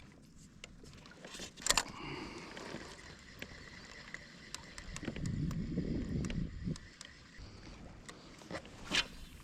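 Kayak moving slowly through calm sea water, with water sloshing along the hull and a louder stretch of sloshing about halfway through. Two sharp knocks on the kayak come, one early and one near the end.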